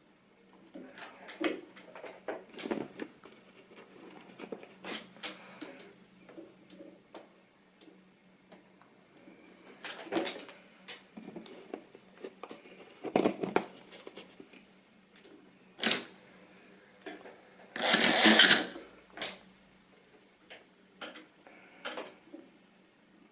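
Model railway rolling stock clicking, knocking and rattling at irregular moments over a faint steady hum. A loud scraping rattle comes about eighteen seconds in.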